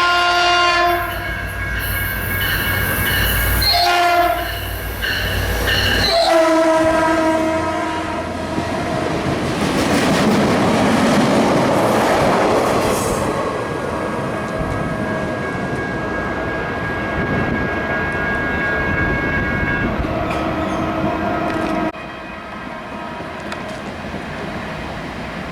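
A diesel locomotive's air horn sounds a chord in several blasts: one at the start, a short one about four seconds in and a longer one from about six seconds. The train then passes with rumbling wheels on the rails, and a final long horn note from about sixteen seconds cuts off abruptly near the end.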